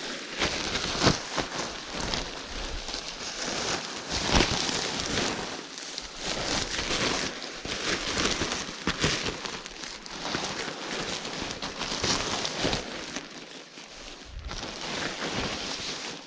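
Nylon fabric of a Naturehike one-person tent rustling and crinkling as the tent body is handled and clipped onto its pole frame, with a few sharper clicks among the rustle.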